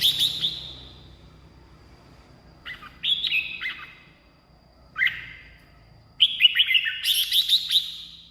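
Red-whiskered bulbul singing in short, quick phrases of chirping notes. A phrase ends just after the start, another comes about three seconds in, a brief one near five seconds, and a longer phrase runs from about six seconds.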